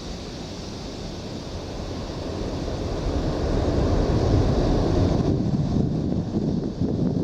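Broad rushing roar of a jet airliner's engines, growing louder over the first four seconds and then holding, with wind buffeting the microphone.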